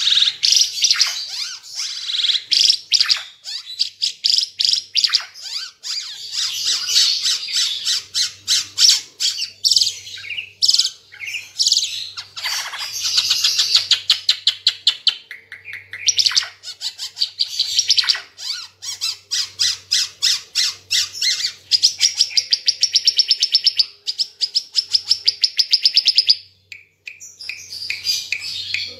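Ara Timor (red-eyed Ara), a songbird, singing loudly in fast, dense trills and chattering runs of notes with hardly a break, pausing briefly near the end.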